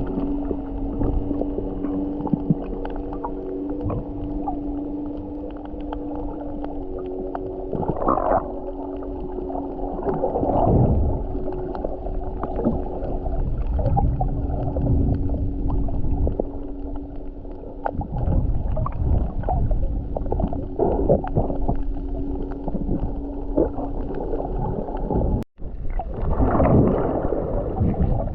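Underwater sound while snorkelling: bubbling and sloshing water over a steady low hum with several droning tones, typical of boat engines heard through the water.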